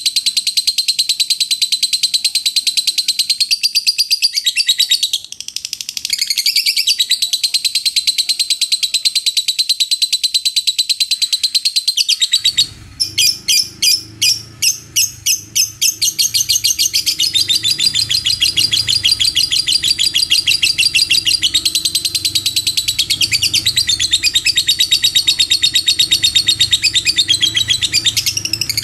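Lovebird chattering in its long 'ngekek' song: a loud, rapid, high-pitched trill that runs on almost without pause. It breaks off briefly about five seconds in, turns into a string of separate quick bursts around the middle, then goes back to the continuous trill, with a low hum underneath from the middle on.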